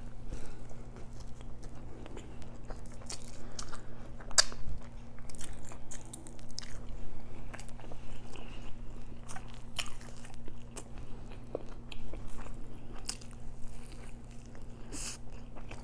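Close-miked chewing and biting of an Italian beef sandwich, with frequent small, irregular mouth clicks.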